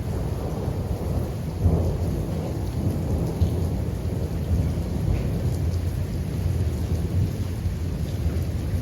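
Steady rain with a continuous low rumble of thunder, with no single sharp clap.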